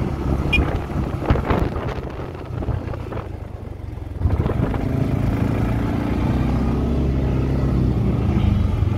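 CFMoto CForce ATV engine running on a trail ride. It eases off for a couple of seconds, then picks up again and runs steadily from about four seconds in, with a few knocks early on.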